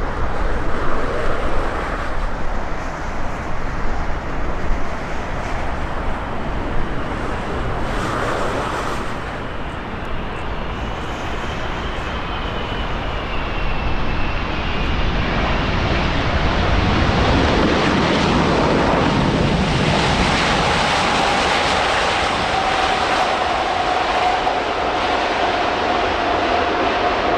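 Airbus A380 jet engines running with a steady roar that grows louder a little over halfway through, a whine slowly falling in pitch over the last several seconds.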